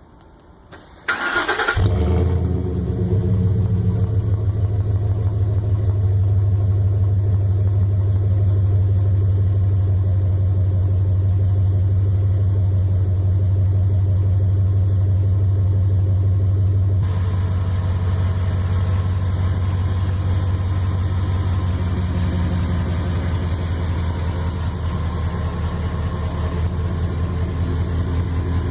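An engine started: a short burst of cranking about a second in, catching almost at once, then idling steadily through its exhaust, the tone turning a little brighter past the halfway point.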